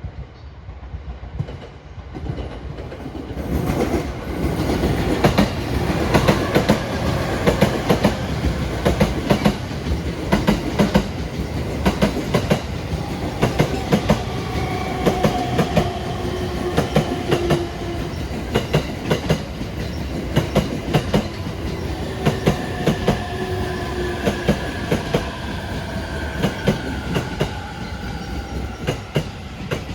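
E231 series 1000 series electric multiple unit rolling slowly into a station, its wheels clacking over the rail joints in a dense, uneven stream of clicks. It grows louder over the first few seconds as the train arrives. Faint tones slide gently downward partway through as it slows.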